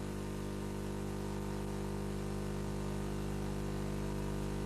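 Steady electrical mains hum with a faint hiss on the recording, unchanging throughout.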